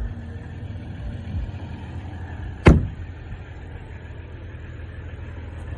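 Pickup truck idling with a steady low rumble, and one sharp, loud thump a little under halfway through.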